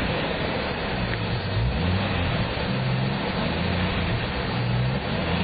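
A 1992 Jeep Cherokee's 4.0 straight-six engine running, its pitch stepping up and down a few times.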